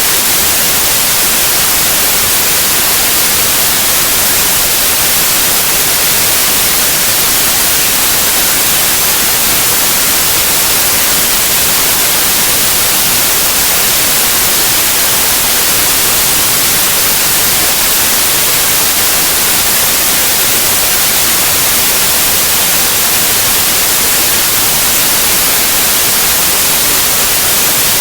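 Steady, unchanging white noise, an even hiss with most of its energy in the high frequencies.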